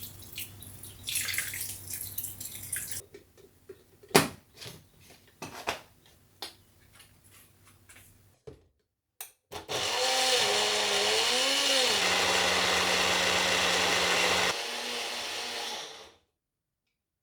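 A few clicks and knocks, then an electric mixer grinder runs for about six seconds. Its motor pitch wavers up and down before holding steady, and it runs quieter for its last second or so before it stops.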